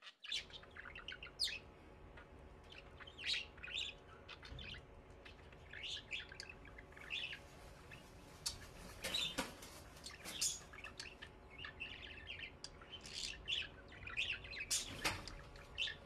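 Cage birds chirping and tweeting in quick, short, high calls over and over, with a few louder, fuller calls about nine seconds in and again near the end, over a faint steady hum.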